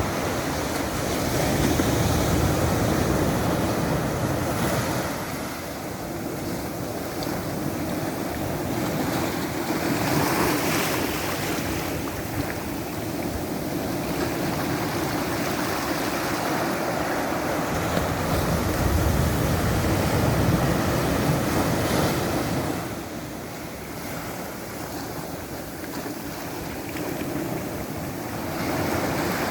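Ocean surf: waves breaking and washing up the shore, swelling louder and easing off every several seconds.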